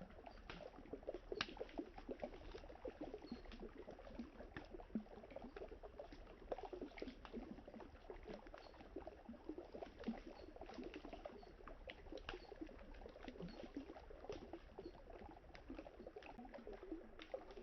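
Wood campfire crackling with frequent sharp pops and snaps, over the soft, steady burble of river water.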